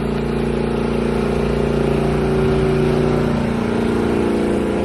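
A large engine running steadily at idle, an even, constant-pitched hum.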